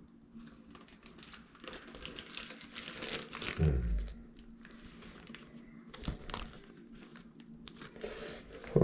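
Crinkling and rustling as shower valve parts and their packaging are handled. There is a dull knock about three and a half seconds in and a sharp knock at the very end.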